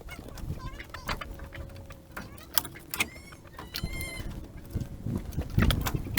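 Wind rumbling on the microphone, with scattered knocks and clicks and a few short, high, wavering calls about three and four seconds in.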